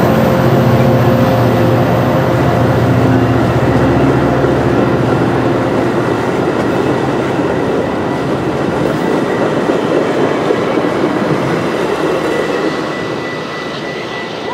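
Diesel-hauled train passing at speed: the locomotive's engine drones for the first several seconds, then the steady rolling noise of the cars goes by and dies away near the end.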